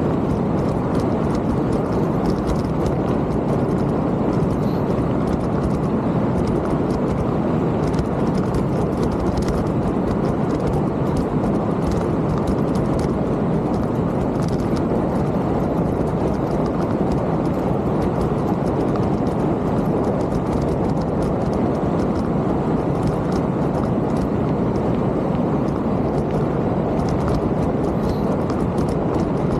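A mountain bike being ridden on a trail: steady wind rush over the camera microphone and tyre noise, with frequent small clicks and rattles from the bike over rough ground.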